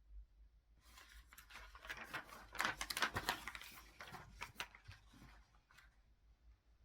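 A burst of rustling and crinkling handling noise, made of many fast crackly clicks, starting about a second in and dying away about a second before the end, loudest in the middle.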